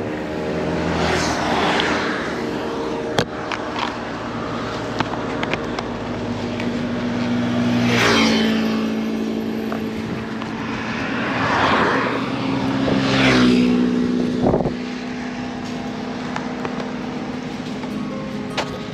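Honda CB500X parallel-twin engine running at a steady cruise, its note shifting slightly, with rushing wind and road noise that swells several times.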